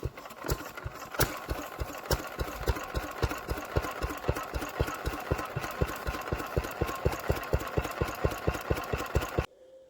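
Enfield SV1 stationary diesel engine running with a steady, even diesel knock of about five beats a second. The sound cuts off abruptly near the end.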